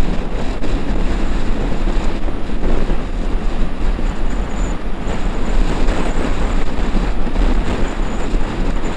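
Strong wind rushing and buffeting over the microphone while riding a Honda XRE 300 single-cylinder motorcycle at highway speed, with the engine running underneath.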